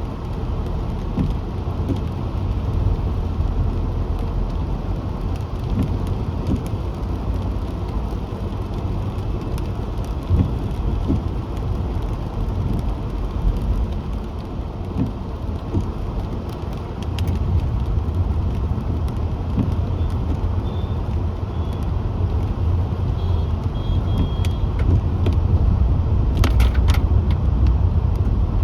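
Car driving along a road: a steady low rumble of engine and tyre noise, getting a little louder about two-thirds of the way through, with a few sharp clicks near the end.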